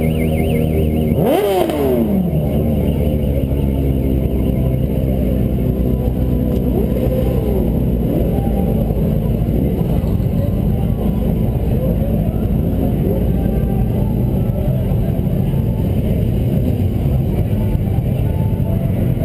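Motorcycle engines running steadily, with one engine note falling sharply about a second in and smaller brief revs after that.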